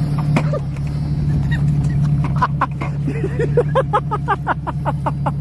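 A 1994 Jeep Cherokee XJ's engine running steadily, with a rapid string of short, rising, high-pitched sounds from about two seconds in.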